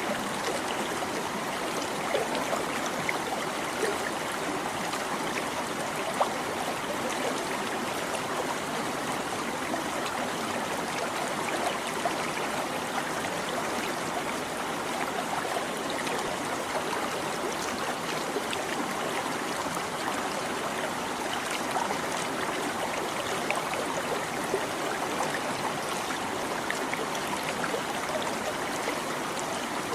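A small stream babbling steadily over stones, an even rush of water dotted with little trickles and splashes.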